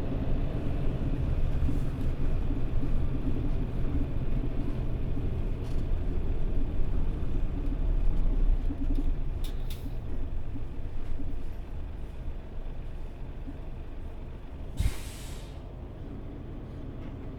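Mitsubishi Fuso Aero Star city bus heard from inside the cabin: a low engine and road rumble that dies down as the bus slows to a stop. About fifteen seconds in there is one short, sharp hiss of air from the air brakes.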